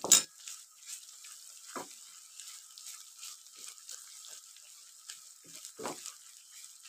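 Garlic-ginger paste frying in hot ghee and onions, a steady soft sizzle, while a wooden spatula scrapes and stirs it around the pan. There is a sharp clack right at the start.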